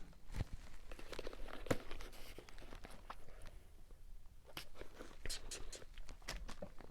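Faint rustling, crackling and scattered clicks of paper fast-food packaging being handled.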